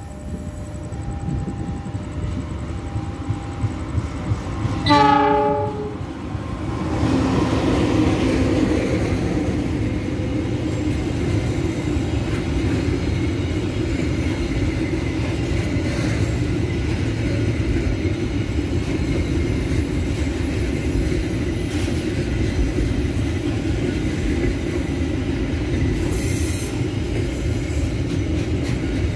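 A container freight train's locomotive sounds one horn blast of about a second, five seconds in, as it approaches. The train then passes close by, with a steady loud rumble of the container wagons rolling over the rails.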